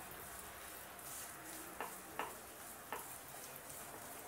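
Besan roasting in ghee, giving a faint steady sizzle, while a wooden spatula stirs it, scraping and tapping the pot three times in the middle.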